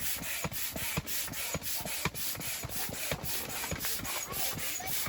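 Manual air pump worked in quick strokes to inflate an air mattress, a steady run of rubbing and clicking.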